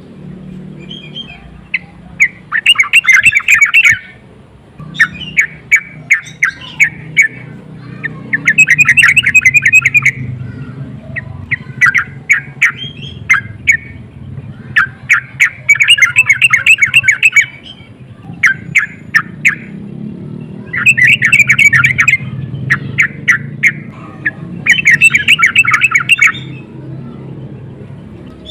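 Yellow-vented bulbul (trucukan) calling in loud, rapid chattering runs of notes, each run one to two seconds long, about seven times, with scattered single notes between them. A low steady hum runs underneath.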